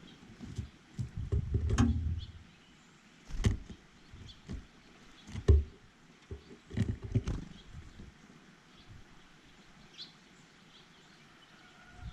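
Irregular knocks, taps and scuffs close to the microphone at a bird feeder, a cluster in the first two seconds and single heavier thumps at intervals after. A few faint, short bird chirps sound between them.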